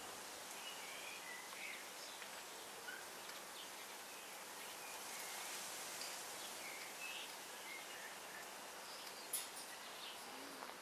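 Faint outdoor background hiss with scattered short bird chirps, and a single sharp click about nine seconds in.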